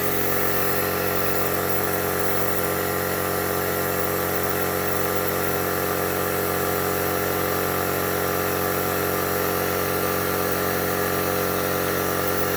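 Air compressor running steadily, inflating a tyre to push its bead onto the rim, with the bead not yet seated.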